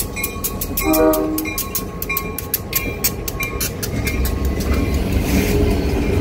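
Union Pacific GP38-2 diesel locomotives passing close, with a deep engine rumble that builds near the end. About a second in there is a short horn blast. A level-crossing bell dings rapidly and evenly through the first few seconds.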